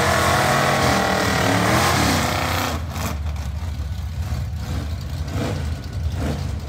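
Drag car engine held at high revs during a burnout, the revs falling away and dropping off about two and a half seconds in. Then drag car engines idling, with two short throttle blips.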